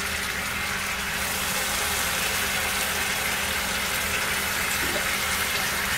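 Wet marinated chicken sizzling steadily in a hot non-stick frying pan, with a faint low hum underneath.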